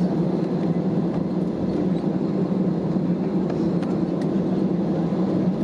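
Steady hum and rumble of an Airbus A320neo, engine and cabin noise running evenly.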